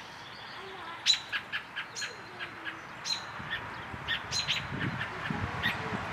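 Adult American robin giving a string of short, sharp alarm calls, one every half second or so, scolding people who are close to its fledgling.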